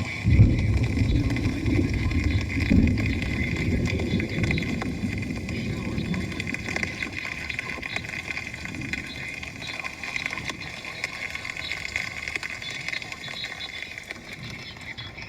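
Thunder: a loud crack about half a second in, then a deep rumble that rolls on and slowly fades over the next several seconds, over the steady hiss of rain.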